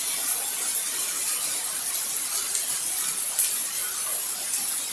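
Heavy downpour of rain, a steady hiss.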